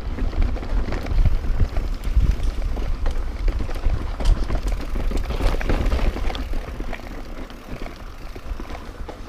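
Riding noise from a mountain bike on a dirt trail: wind buffeting the camera microphone as a loud, gusty rumble, with tyres rolling and the bike rattling in frequent small clicks.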